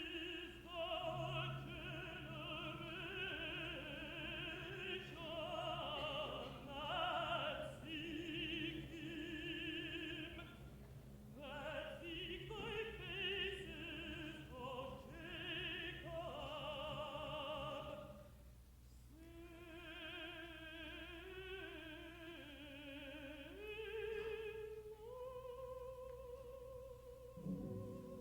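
A contralto sings with vibrato over a soft orchestral accompaniment. Near the end she rises to a long held note.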